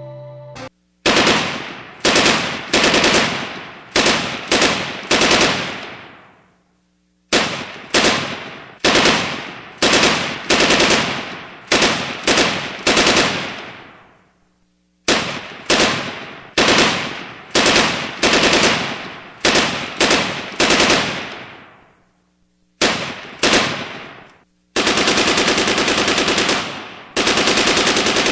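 Gunshots: sharp shots about one every half to one second, each with a long echoing tail, in three runs separated by short pauses. Near the end come two more shots and then sustained rapid automatic fire.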